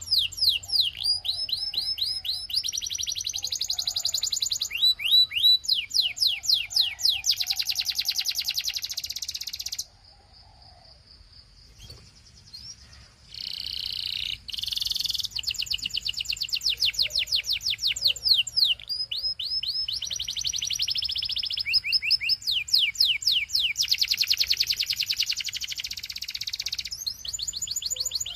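Belgian canary singing: fast rolls of repeated falling notes and dense buzzy trills. The song breaks off about ten seconds in and resumes after roughly three seconds.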